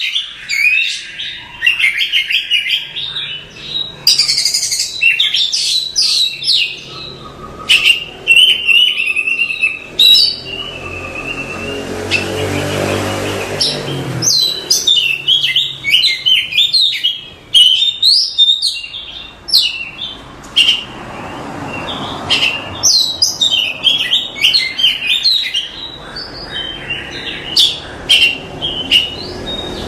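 Oriental magpie-robin (kacer) singing a fast, varied run of chirps and whistles. A low hum sits under the song around the middle.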